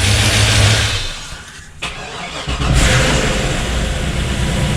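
Freshly swapped Chevy 5.3 LS V8 running on first start-up; its sound drops away about a second in and comes back strongly about two and a half seconds in, then runs steadily. The owners suspect an exhaust leak.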